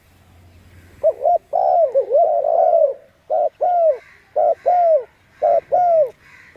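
Doves cooing: short, arched coos that rise and fall, beginning about a second in, overlapping at first and then coming in pairs with short gaps between them.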